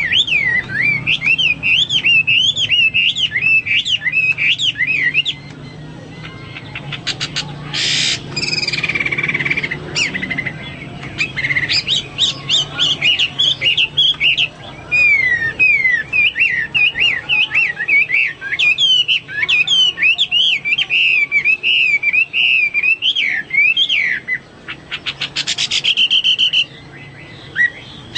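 Hwamei (Chinese hwamei, melodious laughingthrush) singing: a long run of rapid, varied whistled phrases that slide up and down. The song is broken by quick rattling trills about eight seconds in and again near the end, over a low steady hum.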